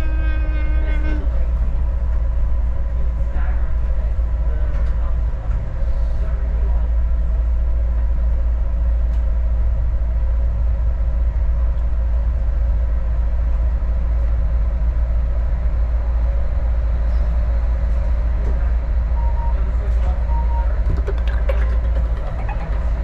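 Adelaide Metro diesel railcar running, with a steady heavy low rumble and a constant hum. A horn sounds at the start and cuts off about a second in.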